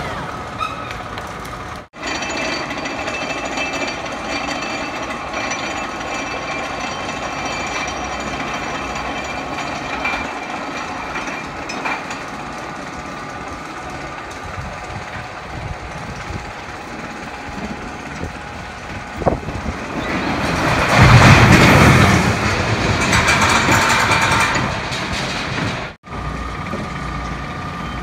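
Wooden roller coaster train clattering and rumbling along its track. It comes closest and loudest about three-quarters of the way through, then fades.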